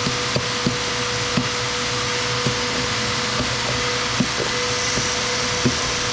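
A machine with a small motor runs steadily, a whooshing noise with a thin steady whine, while sharp knocks and clicks come at uneven intervals about once a second.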